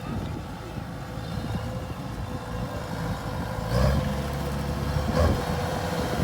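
A farm machine's engine running steadily. It gets louder about four seconds in, with two sharp knocks about a second and a half apart.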